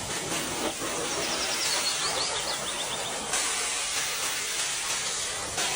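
High-pressure water spray hissing steadily onto a car, getting louder a little past halfway through.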